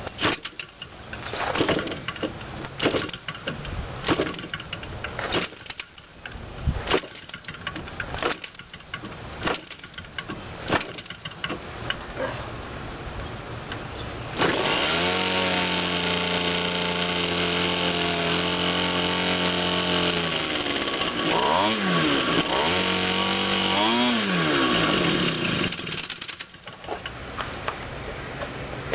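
Quatra 52cc two-stroke gas model-airplane engine being flipped over by hand, a string of sharp knocks, until it catches about halfway through. It then runs steadily, is revved up and back down twice, and stops a couple of seconds before the end.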